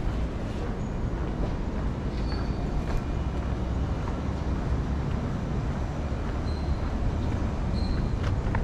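City street ambience: a steady low rumble of passing vehicles, with a few faint clicks and three brief high squeaks.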